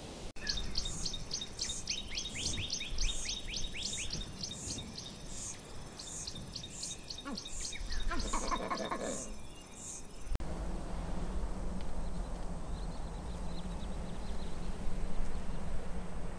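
Birdsong: a bird sings a fast series of high, repeated notes, joined around eight seconds in by a lower run of notes from another bird. About ten seconds in the birdsong cuts off, leaving a steady background hiss with a few faint, distant chirps.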